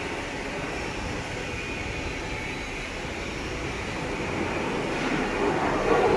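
Steady mechanical running noise, growing louder over the last couple of seconds.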